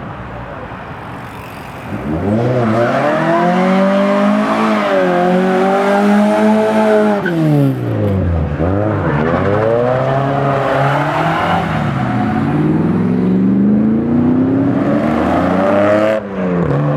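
A classic Ford's engine revving hard as the car accelerates away. The sound starts low, jumps up about two seconds in, and the pitch climbs and holds. It dips sharply about eight seconds in, climbs steadily again, and falls abruptly near the end.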